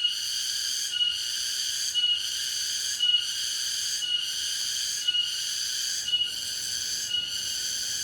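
Cicada calling: a steady high buzzing song that breaks about once a second with a short dip and a brief higher note.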